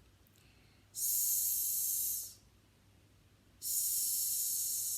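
A woman voicing a long, stretched 's' sound, a steady high hiss held for about a second and a half, twice: once about a second in and again near the end.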